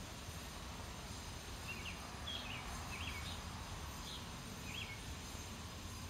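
A bird gives a series of short, high chirps, about seven or eight of them, from about two to five seconds in, over a steady low outdoor rumble.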